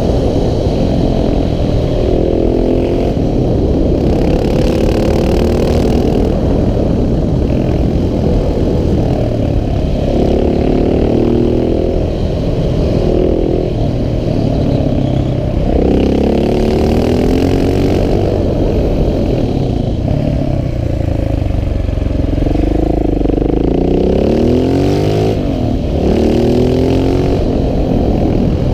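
KTM 690 SMC R's single-cylinder engine under way, its pitch rising again and again as it revs up, then dropping back, with a heavy low rumble underneath throughout.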